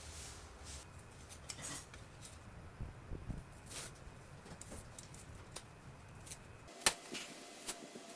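Scattered light clicks and rustles of art materials being handled, with one sharper click about seven seconds in. A low hum underneath stops just before that click.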